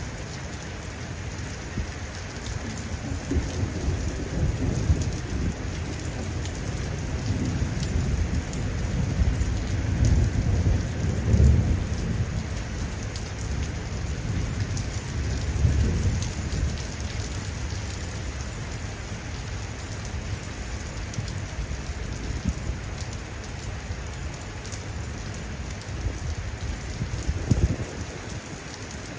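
Steady heavy rain falling, with a long low rumble of thunder that builds a few seconds in, is loudest before the middle and fades away; a short low thump comes near the end.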